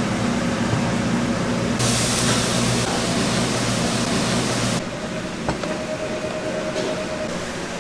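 Steady machine noise of a busy restaurant kitchen, a low hum with a broad rush like burners and extraction fans. A louder hiss comes in about two seconds in and cuts off abruptly near five seconds, leaving a quieter hum with a faint whine.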